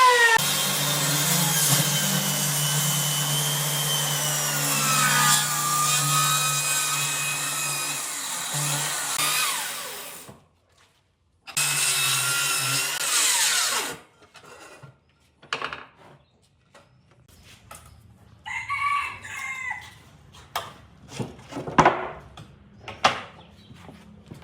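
An electric woodworking power tool runs with a steady hum for about ten seconds, stops suddenly, runs again briefly, and shuts off. Scattered knocks and taps of wood being handled follow.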